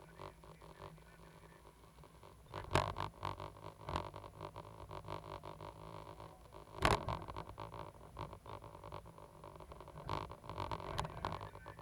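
Caterpillar 320GC hydraulic excavator running with a steady engine drone. Several sharp knocks and clunks from the machine at work come through, the loudest about seven seconds in.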